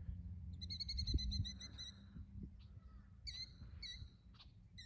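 A bird's rapid, high trill, sung in a longer run and then a few short bursts, over a faint low wind rumble.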